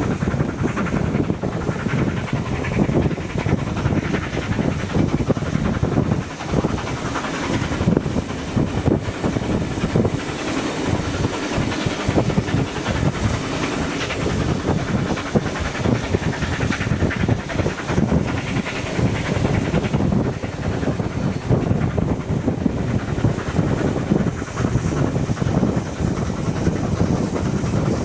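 A train running along the track, its wheels clattering over the rail joints, with some hiss.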